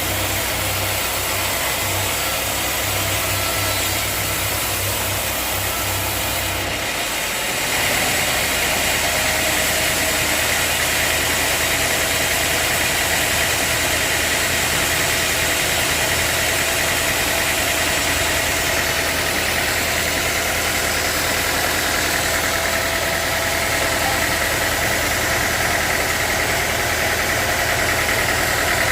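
Sawmill machinery running steadily with a constant motor whine. The low hum changes and the sound gets slightly louder about seven seconds in, then holds steady.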